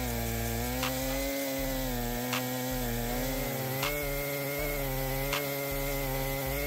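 Two-stroke chainsaw engine running at high revs, its pitch wavering and sagging slightly as it cuts into wood. A sharp click sounds about every second and a half.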